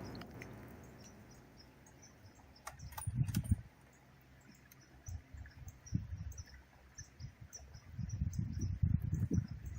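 The low rumble of a just-detonated exploding target dies away over the first two seconds, followed by faint scattered ticks and a few low thuds. The buried main charge did not go off.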